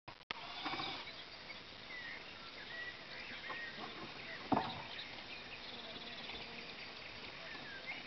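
Outdoor evening ambience with short bird chirps and calls, and one sharp knock about four and a half seconds in.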